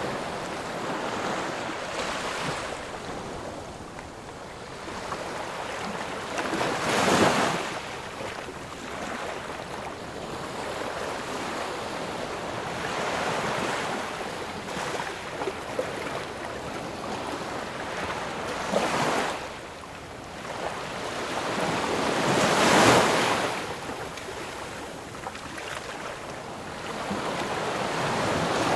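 Ocean surf: waves breaking and washing up on the shore in repeated swells, with larger breakers about seven seconds in, about nineteen seconds in and, loudest, about twenty-three seconds in.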